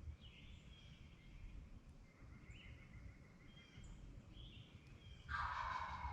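A wild turkey gobbler gobbles once, loud and rattling, near the end, over faint chirps from small songbirds.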